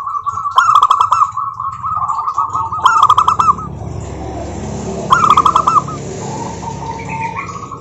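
Zebra doves singing: three loud phrases of quick, rolling notes, with softer notes from other doves between them.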